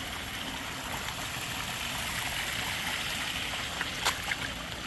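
Steady rush of water splashing down a koi pond's waterfall, with a sharp click about four seconds in.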